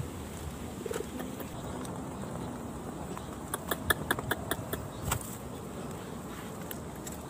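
Pigeons cooing softly, with a quick run of about eight sharp clicks a little over three seconds in.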